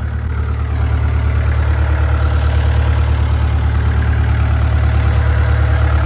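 Skid steer's engine running steadily with a deep drone, coming up a little louder about a second in and then holding.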